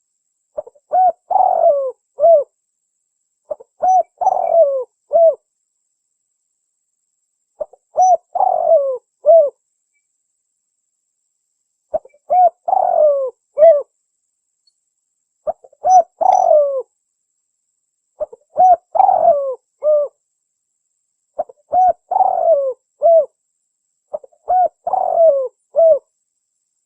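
Spotted dove (tekukur) cooing: eight phrases of several notes each, repeated a couple of seconds apart. This is the bird's advertising call, the kind used as a lure call to draw in wild doves.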